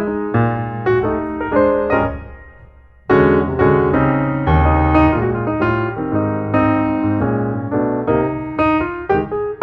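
Background piano music: chords and melody, fading away about two seconds in and starting again a second later.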